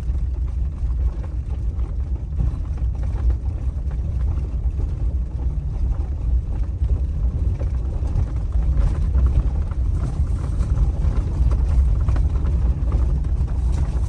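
A vehicle being driven: a steady low rumble of engine and road noise with scattered small knocks and rattles.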